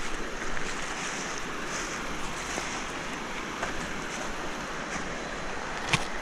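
River water rushing steadily over rocks, with a single sharp click near the end.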